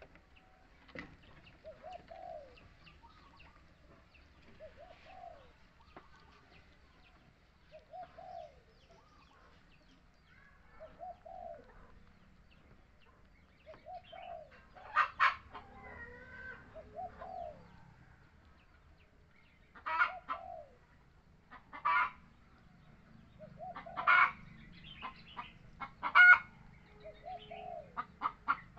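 Birds calling: a short low call repeats about every three seconds, and from about halfway through, louder, sharper clucking calls come every couple of seconds.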